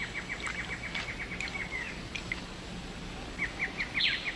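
A bird's trilled call: a rapid run of short, even notes at about ten a second, lasting about two seconds, with a second trill starting near the end, over faint rainforest ambience.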